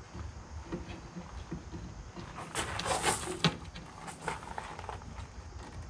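Plywood hull forms being handled and lifted: scraping and rustling of wood, with a sharp knock about three and a half seconds in and a few lighter knocks.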